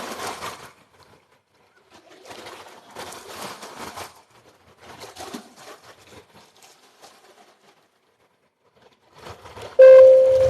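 Slow, deep breaths, airy in-and-out breathing in three long pulls a second or two apart. Near the end a loud, steady pitched tone starts suddenly and fades.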